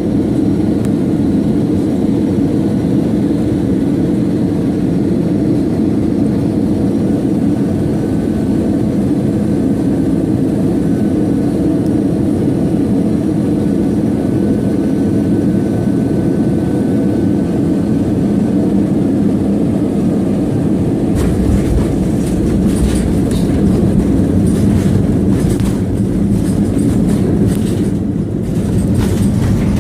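Airliner cabin noise: a steady low roar of engines and airflow. About two-thirds of the way in, a heavier rumble with rattling knocks sets in: the wheels rolling on the runway after touchdown.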